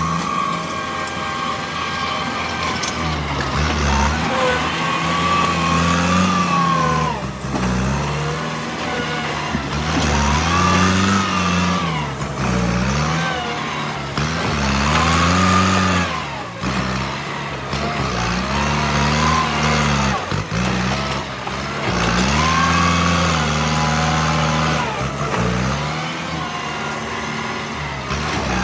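Bulldozer's diesel engine running under load, revving up and dropping back again and again every few seconds as the machine works, with a higher whine rising and falling along with it.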